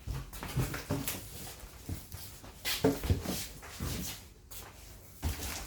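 Irregular knocks, thuds and scraping rustles of a large boxed computer case being handled.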